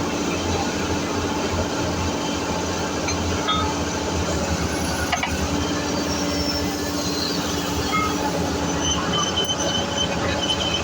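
Heavy construction machinery running steadily, with short high metallic squeaks now and then.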